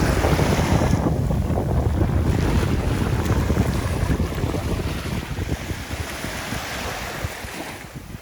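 Wind buffeting the microphone with a heavy low rumble, over the rushing of sea waves on the shore; it eases off over the last few seconds.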